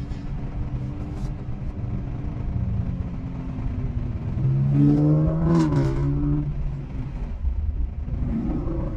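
Car engines running, with a low steady rumble. About halfway through, one car's engine gets louder and its pitch rises and then falls, as it revs or drives past.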